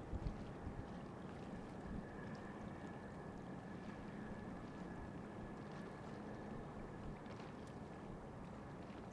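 Steady low drone of ship engines, with a faint steady high whine above it and a little wind buffeting the microphone at the start.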